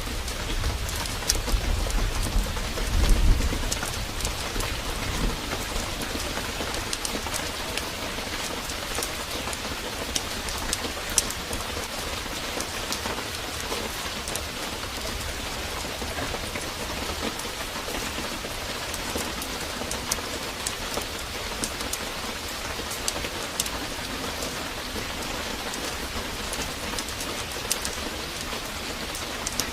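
Heavy rain pouring steadily, with scattered sharp drop ticks, and a low rumble of thunder in the first few seconds.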